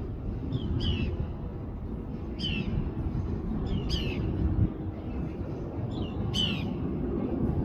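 A small bird chirping repeatedly: short, high notes that sweep downward, often in pairs, about every second and a half, over a steady low rumble.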